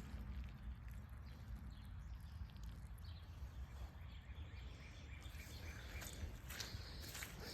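Quiet outdoor ambience: a low steady rumble with faint bird chirps, and a few rustling steps near the end.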